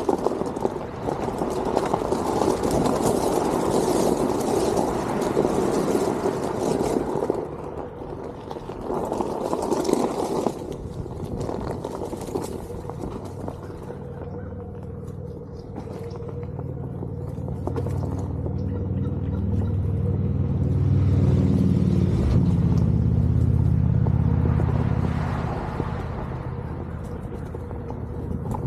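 Onewheel GT riding along a trail: a steady rumble of the tyre rolling over the ground, with a low hum that builds in the second half.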